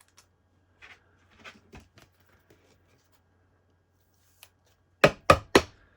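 Trading cards being handled: faint rustling of cards, then three quick, loud, sharp snaps of cards near the end.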